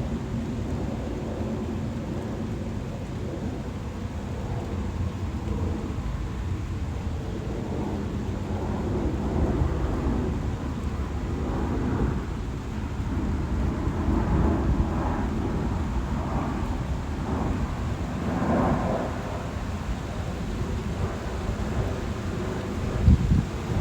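Wind buffeting the microphone: a steady low rumble that swells in gusts through the middle, with a sharp low thump near the end.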